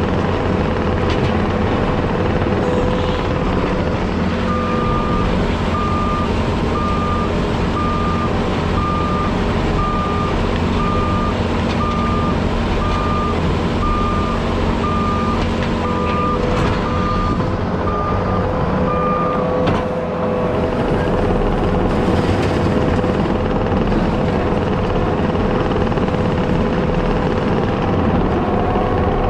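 Heavy equipment engine running steadily while grading, with the machine's reversing alarm beeping about once a second for some fifteen seconds in the middle.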